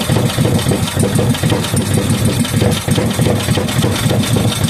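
5 hp Briggs and Stratton single-cylinder engine idling, with rapid firing pulses; the idle is set too low.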